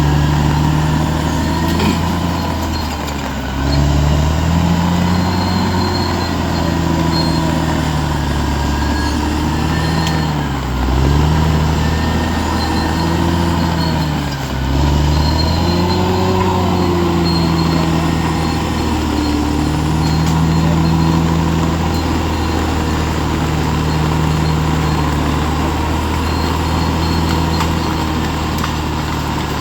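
Bulldozer's diesel engine running steadily under work. Its pitch sags briefly and recovers three times, about 3, 10 and 14 seconds in, as the engine is pulled down under load.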